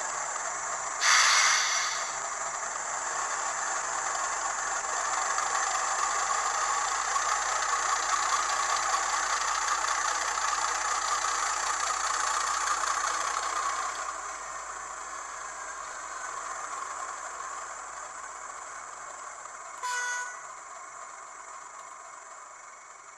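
Hornby TTS sound decoder playing a Class 31 diesel locomotive sound through the N gauge model's small speaker: the engine running, building up and then easing off about 14 seconds in. A loud horn blast comes about a second in and a short horn toot near 20 seconds, and the sound fades away near the end.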